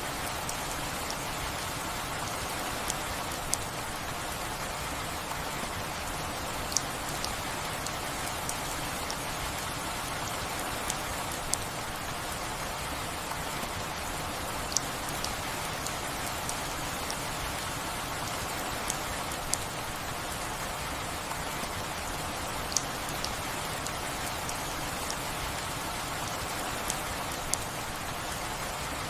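Steady rain, with single louder drops ticking sharply at irregular moments every second or two.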